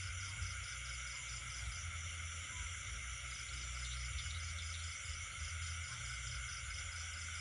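Night chorus of insects and frogs: several steady high trills overlap, one pulsing rapidly and evenly, over a low steady rumble.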